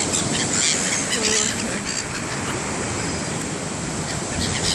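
Black Sea surf washing onto the shore as a steady rushing noise.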